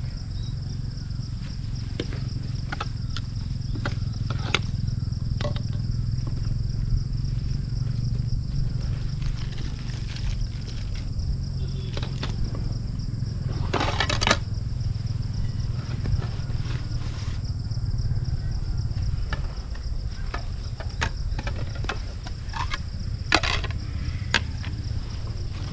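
Steady high insect chirring over a constant low rumble, with scattered light clicks and two brief louder rustling bursts, one about halfway through and one near the end.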